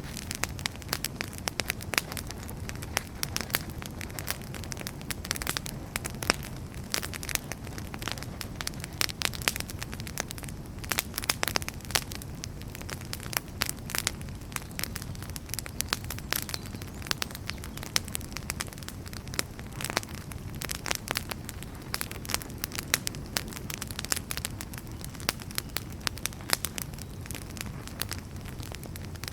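Firewood burning in a fireplace: frequent, irregular sharp crackles and pops over a steady low rumble of the flames.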